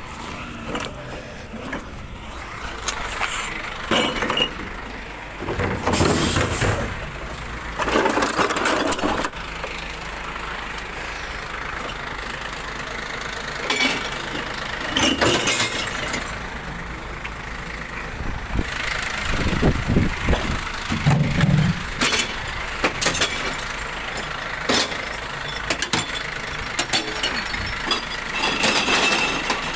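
Glass-recycling collection truck's engine running, with several loud clattering bursts over it.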